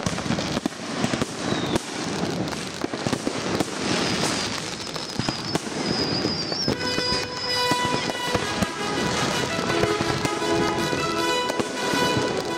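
Aerial firework shells bursting one after another with bangs and crackling. Added background music with steady held notes comes in clearly about two-thirds of the way through.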